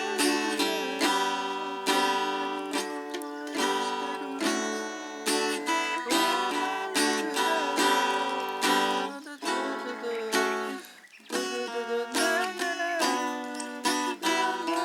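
Acoustic guitar music, plucked and strummed, with a brief pause about eleven seconds in.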